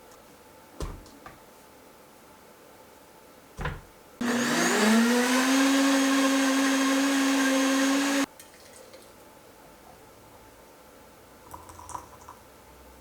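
Electric blender blending a smoothie: the motor starts about four seconds in, spins up quickly to a steady whine, runs for about four seconds and then stops abruptly. A couple of short knocks come before it.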